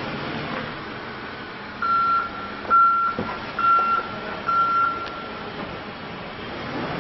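Backup alarm of a Case 580N backhoe loader beeping four times, about one beep a second, while the machine reverses with its diesel engine running underneath.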